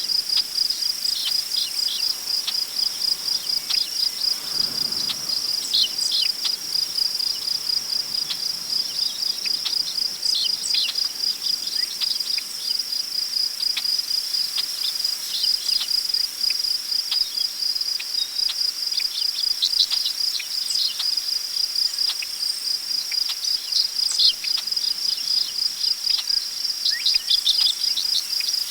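Crickets chirping in a steady, rapid, even trill, with scattered short bird calls over it. A soft gust of wind passes about four seconds in.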